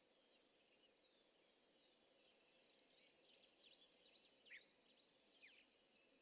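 Faint wild bird calls: a cluster of quick, high, downward-sweeping chirps about halfway through, over a faint steady background hiss.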